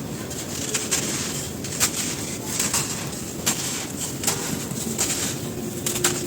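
Dry, dusty crumbly cylinders being crushed, a steady crisp crunching with about seven sharper cracks, roughly one a second.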